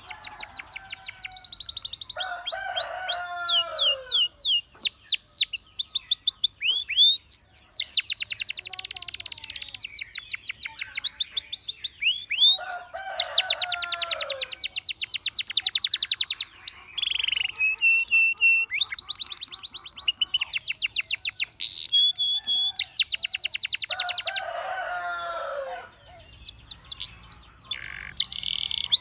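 Canary singing: long rapid trills of high repeated notes and quick rising and falling sweeps. Three times, a lower phrase of falling chirps cuts in between the trills.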